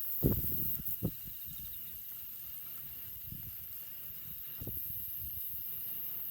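Wood campfire burning with a steady faint hiss, broken by a few dull low thumps.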